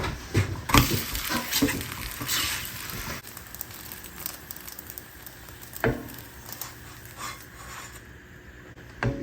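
Light knocks and clatter of household objects being handled, busiest in the first few seconds, with one sharper knock about six seconds in.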